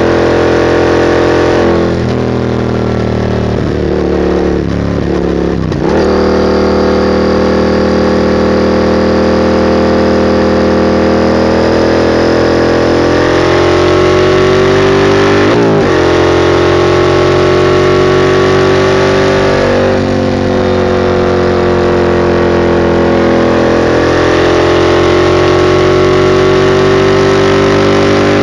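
Exhaust note of a 2021 Yamaha MT-07's parallel-twin engine through a straight-piped Mivv GP exhaust, heard while riding. The engine note runs loud and steady, falling for a few seconds early on. Its pitch then dips and recovers several times, most sharply about halfway, as at gear changes.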